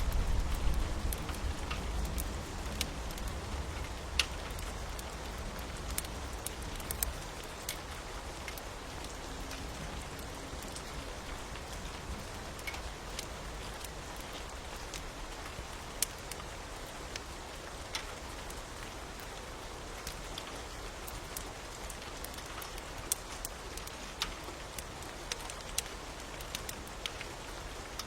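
Steady rain with a wood fire crackling, sharp pops scattered through it. A low rumble of thunder dies away over the first seven seconds or so.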